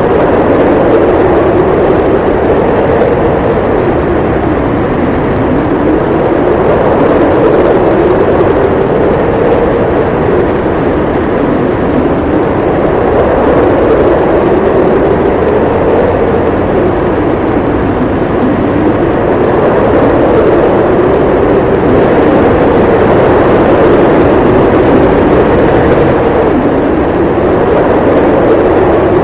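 Howling blizzard wind: a loud, steady rush with a howling tone that slowly rises and falls in pitch every few seconds.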